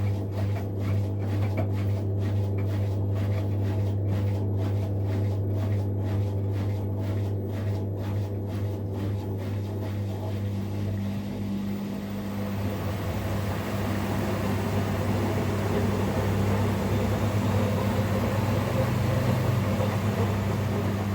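Miele Professional PW 6065 Vario washing machine in its final 1200 rpm spin: a steady motor hum as the drum spins, with a rushing noise growing louder about halfway through.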